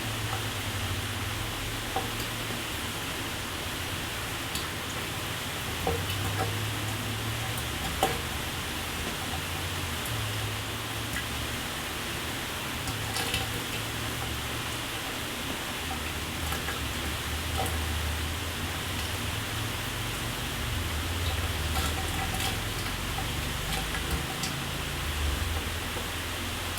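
A shower running steadily: an even hiss of water spray with scattered faint drips and taps.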